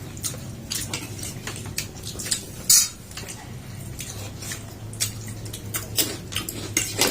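Scattered clicks and clinks of dishes and utensils at a meal, the sharpest about two and a half seconds in, over a low steady hum.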